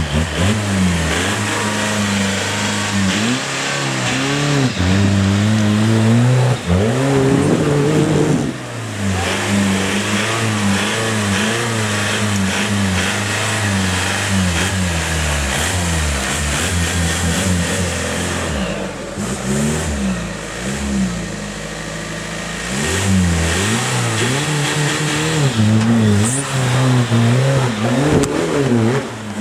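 Off-road vehicle's engine revving up and down again and again under varying load, with a sharp rise in revs about eight seconds in.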